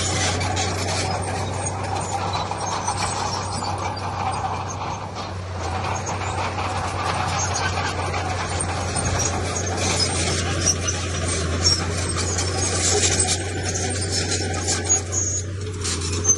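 Heavy diesel earthmoving machinery running steadily, a constant low engine hum under a rasping, scraping noise of stone and steel.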